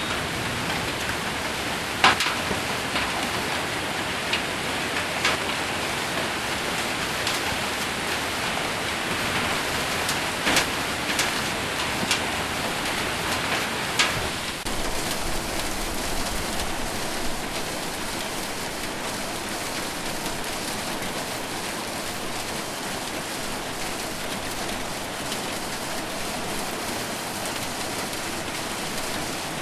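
Heavy rain with hail falling on a metal roof: a steady dense hiss. Through the first half, sharp single strikes of hailstones hitting the metal stand out above it, and they thin out in the second half.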